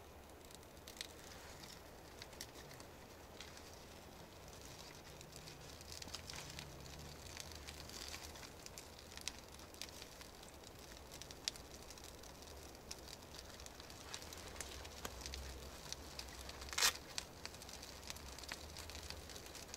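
Small campfire crackling with sparse pops, and one louder crack about 17 seconds in.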